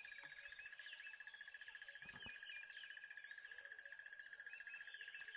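Near silence: faint small-bird chirps over a steady, faint high tone.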